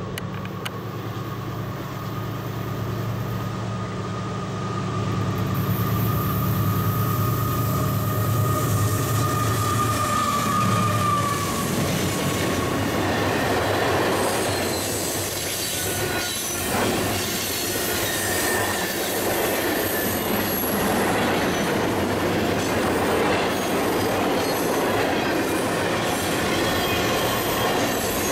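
A train passing. A locomotive's engine runs with a steady low hum for about the first ten seconds. Then the cars roll by with steady wheel noise and high squeals from the wheels on the rail.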